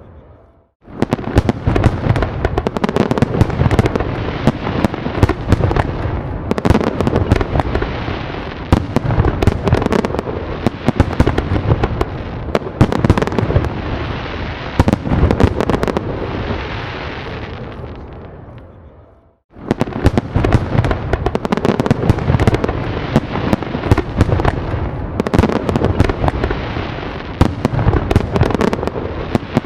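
Dense barrage of fireworks: rapid, overlapping bangs and crackling bursts. It fades away about eighteen seconds in, breaks off briefly, then starts again abruptly at full strength.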